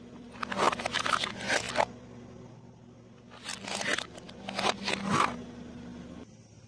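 Crunchy eating sounds: two runs of crackling crunches, each lasting about a second and a half, over a steady low hum.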